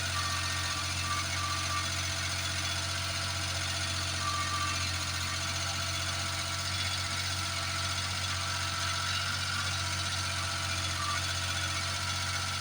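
Japanese mini truck's small engine idling steadily, with no change in speed.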